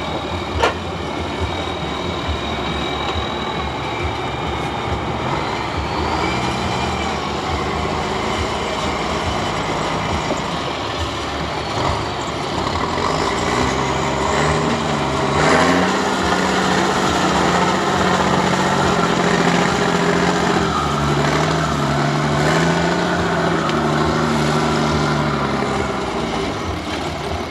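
Heavy truck engine running. From about halfway its pitch rises and falls repeatedly as it is revved up and down. There is a sharp click about half a second in and a short burst of noise near the middle.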